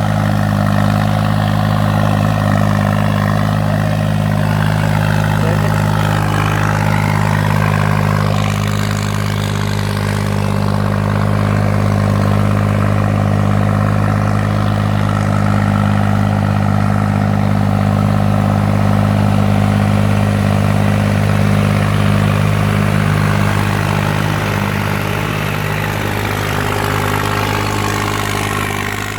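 New Holland tractor's diesel engine running steadily, easing off a little near the end.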